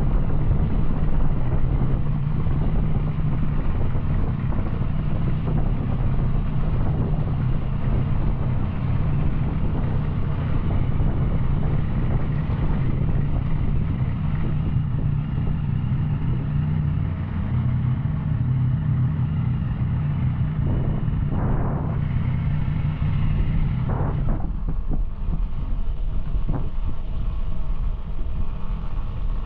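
Yamaha Tracer 900 three-cylinder engine with an Arrow exhaust running steadily under way. About 24 seconds in, the engine note drops and a few short sharp sounds follow.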